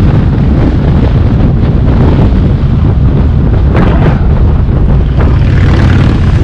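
Car engine and exhaust running loudly and steadily while the car drives along, a deep low drone.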